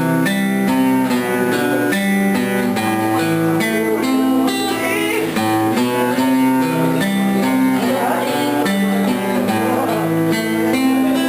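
Instrumental introduction to a nueva trova song on acoustic guitar, with chords strummed and plucked in a steady rhythm and no singing yet.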